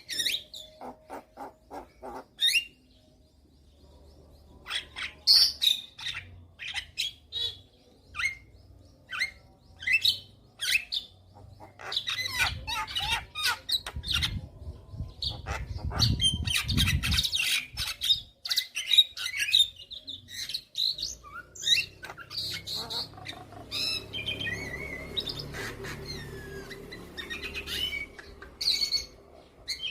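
Javan myna (jalak kebo) singing a long, varied run of quick chirps, whistles and harsh squawking notes, with brief pauses between phrases. A low rumble sits under the song about halfway through.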